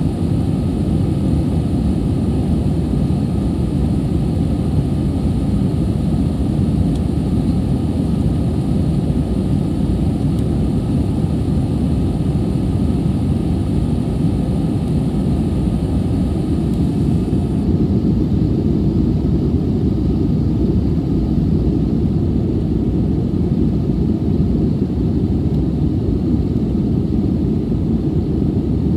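Airbus A320 jet engines and airflow heard inside the passenger cabin as a loud, steady, deep roar. A faint high-pitched tone cuts off a little past halfway.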